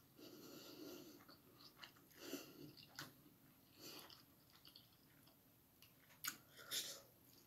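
A person faintly chewing a mouthful of spicy instant noodles, with a few short breaths between bites; two sharper puffs of breath near the end are the loudest sounds.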